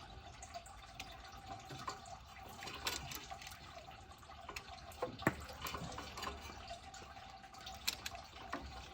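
Light, scattered clicks and taps of hand tools and metal parts being handled during engine disassembly, over a steady background hiss and faint hum.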